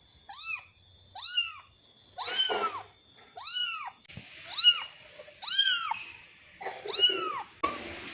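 Angora-mix kitten meowing over and over, about one high call a second, each rising then falling in pitch: a kitten separated from its mother, calling for her.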